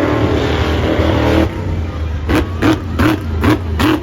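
A vehicle engine running loud and revving, easing off abruptly about a second and a half in and settling to a low hum. Six short bursts follow at an even, quick pace.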